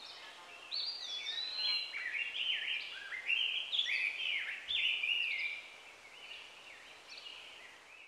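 Songbirds singing: a busy run of short chirping phrases that slide up and down in pitch, overlapping, then fading out near the end.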